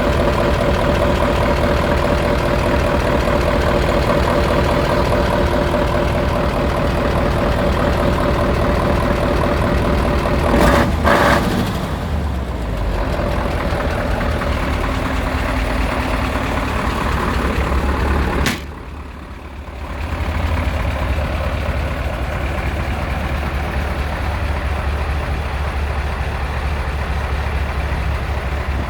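Mercedes-Benz SK 2629 AK 6x6 tipper truck's diesel engine running steadily, with a whine over it for the first ten seconds or so. A short loud burst comes about eleven seconds in, and the sound drops suddenly for about a second near nineteen seconds in before the engine sound returns.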